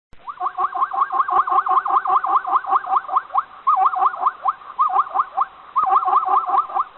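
An animal calling in a fast series of short rising chirps, about four or five a second, with brief breaks about three and a half and five and a half seconds in.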